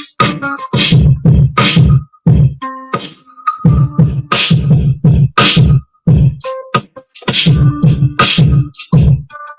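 Hip-hop beat playing back from Maschine MK3: punchy kick drum and snare hits in a steady pattern, with a few short pitched sample tones, cutting out briefly a few times.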